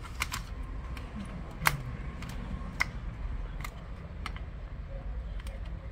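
Scattered sharp clicks and small taps from tools and parts being handled while a laptop is taken apart, about eight in all, the loudest a little under two seconds in, over a low steady hum.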